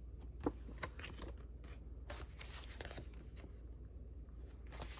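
Paper cards being handled and sorted: soft rustles and a few light taps and clicks, spread unevenly.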